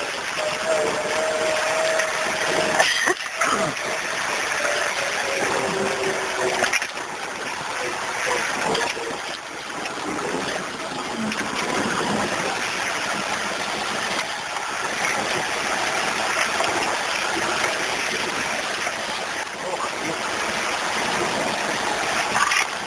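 Off-road vehicle driving through muddy ruts and puddles: a steady wash of splashing water over the running engine.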